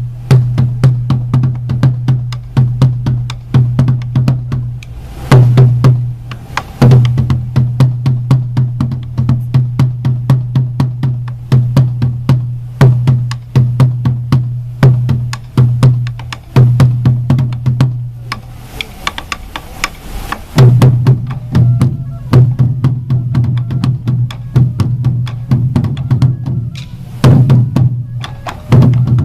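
Sansa odori taiko drums beating a steady, driving rhythm, with a short break in the drumming about two-thirds of the way through.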